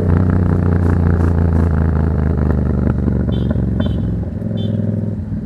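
Yamaha MT-07's parallel-twin engine through a Black Widow aftermarket exhaust, running steadily at low revs with some clatter. Three short, high chirps sound a little past the middle.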